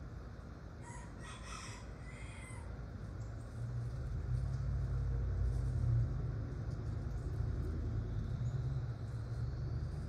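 A single drawn-out bird call about a second in, lasting about a second and a half. From a few seconds in it sits over a low, steady rumble that grows louder and becomes the loudest sound.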